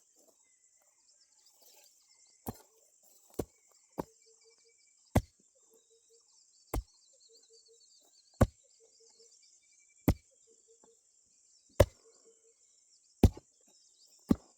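A hand digging tool striking soil again and again, about ten blows spaced a second or so apart, coming faster near the end. A steady high drone of insects runs underneath.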